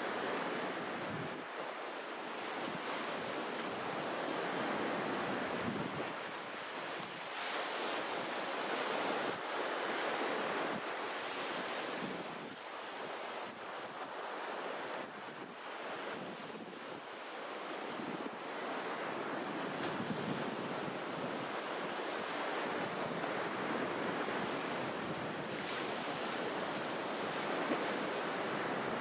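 Small sea waves washing onto the shore, swelling and easing every few seconds, with light wind on the microphone.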